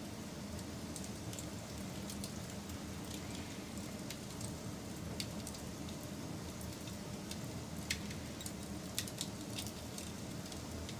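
Wood fire burning steadily, with a low rush and scattered sharp crackles and pops from the burning wood, a few louder pops in the second half.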